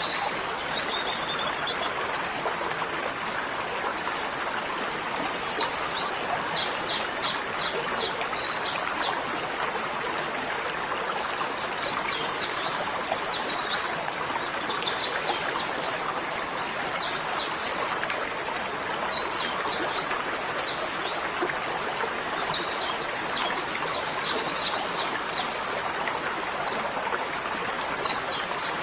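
Steady rush of running water, with a small songbird singing several phrases of quick, high, down-slurred chirps over it.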